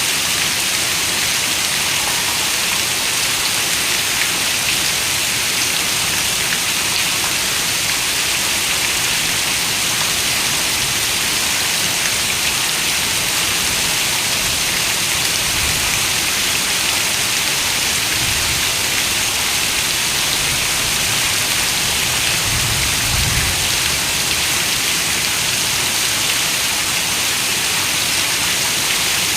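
Steady, even rain falling on a window, a dense hiss of drops. A few soft low rumbles come and go past the middle.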